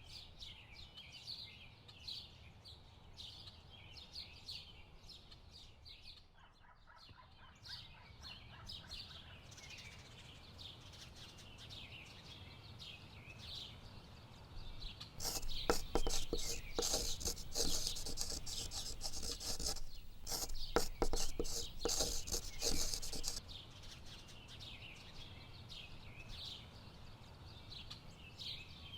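Small birds chirping over and over. About halfway through, a loud, rough rubbing and scraping noise takes over for about eight seconds and then stops.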